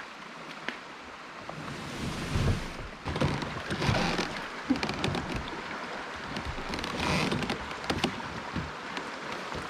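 River current rushing and splashing around a kayak, with louder surges of splashing about two and a half, four and seven seconds in.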